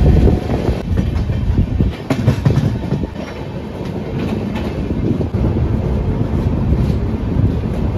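Passenger train's coach rolling into a station, its wheels clattering irregularly over the rail joints under a steady rumble.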